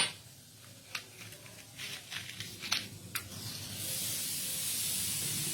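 A flame being lit for a non-electric table fan: one sharp strike, a few light clicks, then a steady hiss from about four seconds in.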